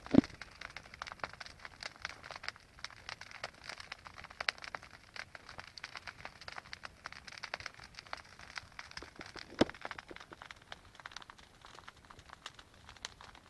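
Big bonfire of piled logging slash crackling, with a steady patter of sharp pops and two louder cracks, one right at the start and one about two-thirds of the way through.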